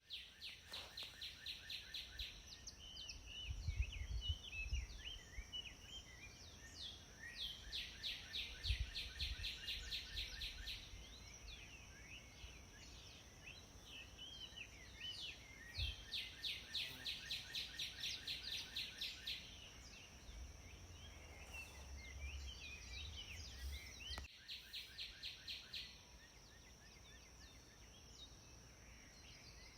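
Birds singing: one repeats a run of sharp, evenly spaced high notes, about three a second, in bouts of a few seconds, with scattered shorter chirps from others in between. A steady high-pitched whine runs underneath.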